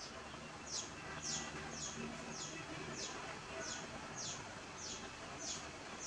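A bird calling: a steady series of about ten short, high chirps, each sliding down in pitch, nearly two a second.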